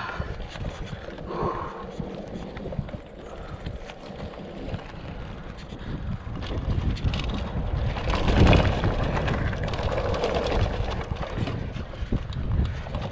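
Wind buffeting the microphone over a steady low rumble, with a louder swell about eight and a half seconds in.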